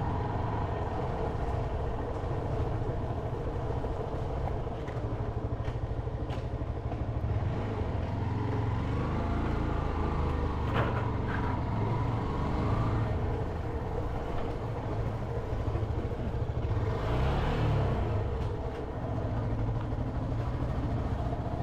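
Motorcycle engine running steadily under way, with a continuous low rumble of road and wind noise and a brief louder surge of noise near the end.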